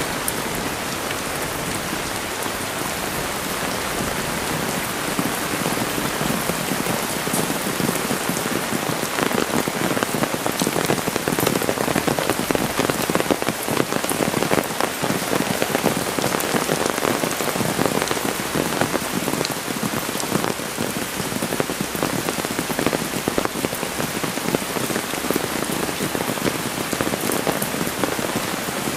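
Heavy rain falling: a dense, steady patter of drops that grows louder about ten seconds in.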